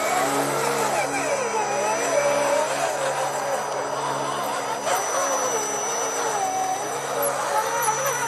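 Electric motor and gear whine of RC scale crawler trucks, rising and falling in pitch as the throttle is worked.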